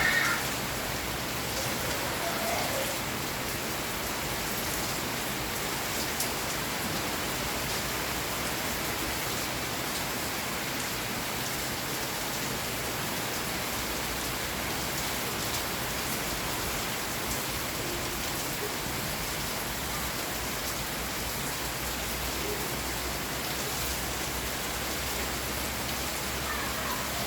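Steady rain falling: an even hiss with faint ticks of individual drops here and there.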